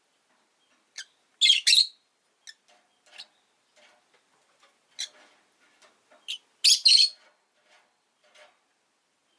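Rosy-faced lovebirds chirping: short, shrill calls, loudest in two brief clusters about a second and a half in and again about seven seconds in, with softer chirps scattered between.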